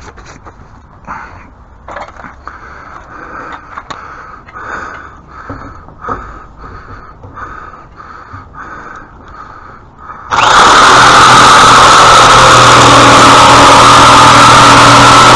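Rhythmic scraping or rasping strokes, about two a second, from hand work on wood; then about ten seconds in a loud power tool or small engine starts abruptly and runs steadily, loud enough to overload the recording.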